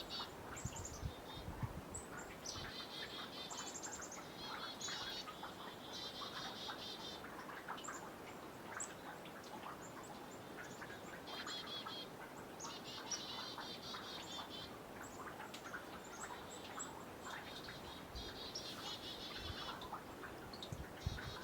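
Small birds calling, with rapid trills about a second long repeated every couple of seconds and high, thin short notes between them. Faint scattered drips of melting snow falling into the pond.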